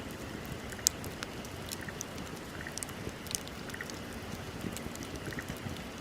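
Bonfire crackling. Irregular sharp pops and snaps of burning wood sound over a low, steady rumble of the flames, with one louder pop about a second in.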